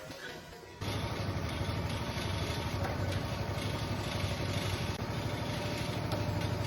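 Small engine running steadily at idle, kicking in abruptly about a second in, most likely the log splitter's own gas engine driving its hydraulic pump.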